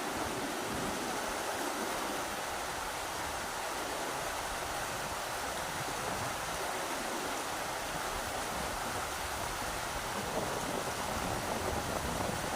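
Rushing river water, a steady even rush. Toward the end, low uneven buffeting from wind joins in.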